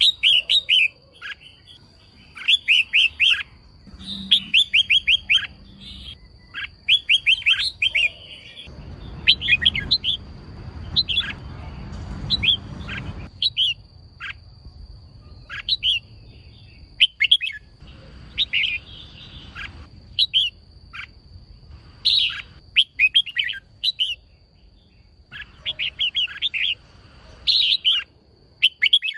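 Female red-whiskered bulbul calling: quick clusters of short chirps repeated every second or two. Under it runs a faint steady high whine, with a stretch of soft hiss in the middle.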